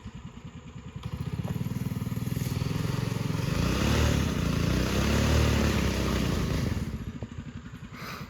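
Minibike's small gas engine running at low revs, then revving up with its pitch rising and falling twice in the middle, and settling back to a low idle near the end.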